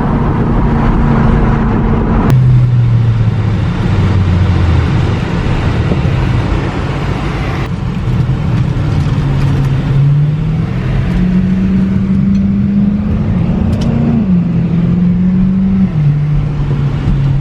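BMW E92 M3's V8 engine under way, holding steady revs that drop and climb several times as it changes gear and speed.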